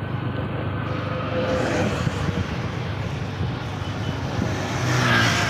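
Bajaj Discover 110 cc motorcycle's single-cylinder engine running steadily, swelling louder near the end.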